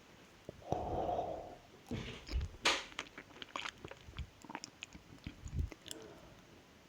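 Close-miked mouth sounds of eating: biting and chewing with wet clicks, and a sharp crunch about two and a half seconds in.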